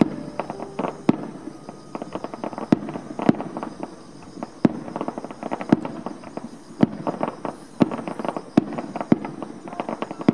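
Aerial fireworks going off: about a dozen sharp bangs of bursting shells, roughly one a second, with a dense crackle between them.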